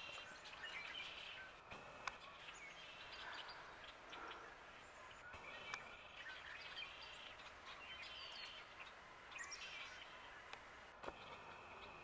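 Faint, scattered chirps and short calls of small birds over a quiet hiss, with a sharp tick about two seconds in.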